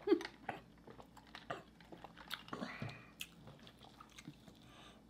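Quiet close-miked eating sounds: chewing and biting into saucy turkey wings, with scattered wet mouth clicks and smacks.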